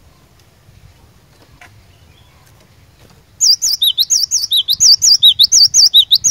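Cinereous tit (gelatik batu) singing: after about three seconds of faint background, a loud rapid run of repeated sharp, high, sweeping notes begins and continues to the end.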